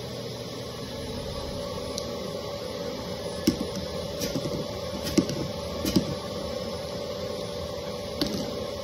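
Miele vacuum cleaner running with a steady hum and strong suction. Several sharp clicks and knocks break through in the middle and once near the end.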